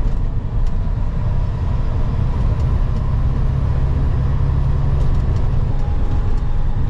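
Semi truck pulling a loaded dry bulk tanker, cruising at highway speed: a steady low engine and road rumble.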